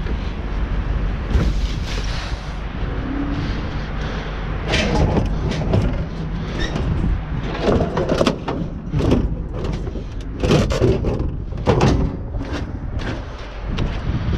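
Scrap metal being shifted and wedged onto a loaded truck: a run of irregular metallic clanks, knocks and thumps, several loud ones between about five and twelve seconds in, over a steady low rumble of wind on the microphone.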